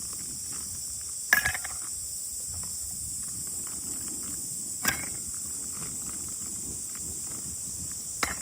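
Steady chorus of crickets or other insects, a high-pitched unbroken buzz. Three sharp knocks cut through it, about a second in, about five seconds in and near the end; the first is the loudest and rings briefly.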